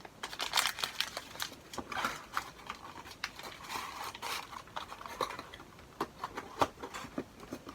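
Packaging being handled by hand: light rustling with scattered taps and clicks, thinning out near the end.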